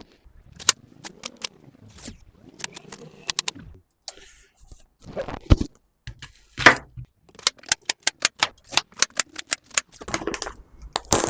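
Irregular clicks and light rattles of a salad and its packaging being handled and put into a dish, at times fast and close together.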